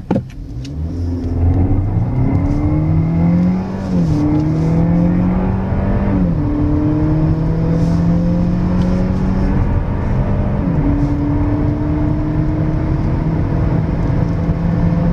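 A 1.4-litre four-cylinder petrol car engine accelerating hard from a standstill, heard from inside the cabin: its pitch climbs through each gear and drops at gear changes about four, six and eleven seconds in. A few sharp clicks at the very start.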